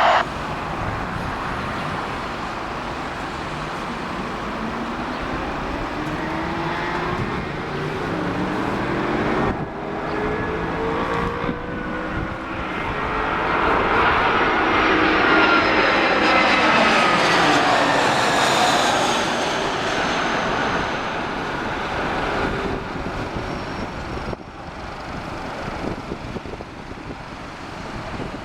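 Jet airliner's engines on approach as it flies past: the roar builds to a peak about halfway through and then fades away, with whining tones that sweep up while it nears and down as it passes.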